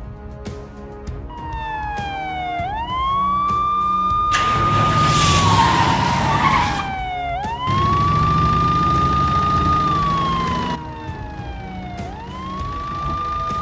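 Emergency-vehicle siren wailing, climbing quickly to a held high note and then sliding slowly down, about every five seconds. A loud hiss joins it for a few seconds about four seconds in.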